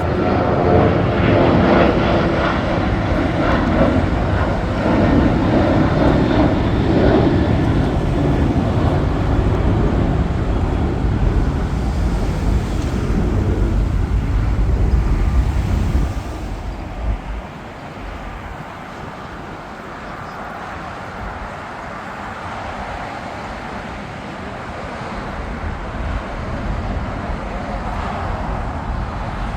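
Jet airliner engines passing close by, a loud steady rumble that drops away fairly suddenly about halfway through, leaving a quieter steady engine noise.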